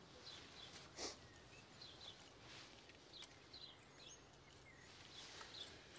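Faint birdsong: scattered short, high chirps over a quiet outdoor ambience, with a soft knock about a second in.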